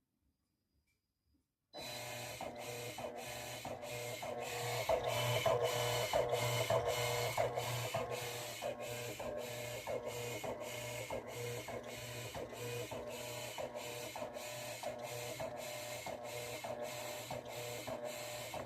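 Electrolux LTC10 top-loading washing machine's mechanism starting up about two seconds in and running: a steady motor hum with regular mechanical clicking about twice a second.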